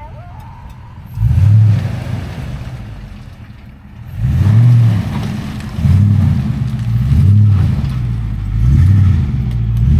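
Off-road vehicle's engine revving in repeated bursts. Two separate pulls come first, then the revs rise and fall about every second and a half.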